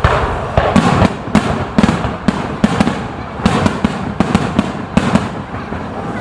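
Fireworks display: a rapid run of aerial shell bursts, about two to three bangs a second, each echoing, over continuous crackling.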